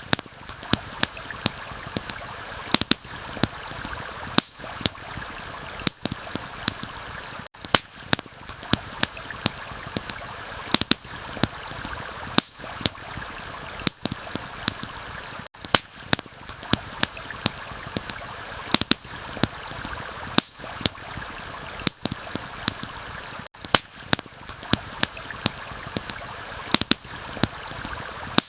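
Campfire crackling, with frequent sharp irregular pops, over the steady rush of a flowing stream.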